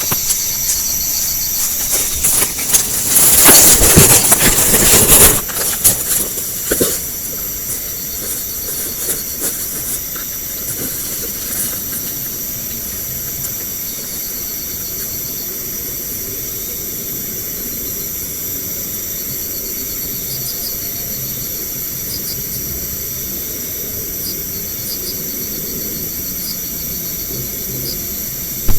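Night chorus of crickets and other insects with a steady hiss, with loud rustling close to the microphone for a few seconds near the start.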